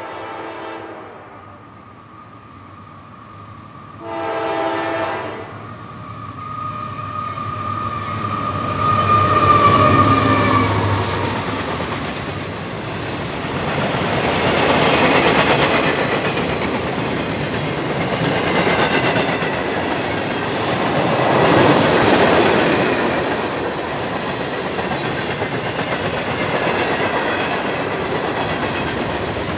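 Horn of a CSX freight train led by a GE AC4400CW and an EMD SD60M: a chord blast ends about a second in and a short second blast comes around four seconds in. The locomotives pass loudly about ten seconds in, then freight cars roll by with wheels clacking over rail joints.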